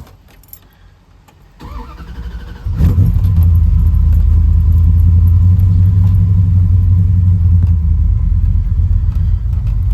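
A 410-cubic-inch stroker Magnum V8 cranks for about a second and fires right up, then runs at a steady, loud, deep idle through a 3-inch stainless dual exhaust with catalytic converters and mufflers. A few light clicks and a key jingle come just before the cranking.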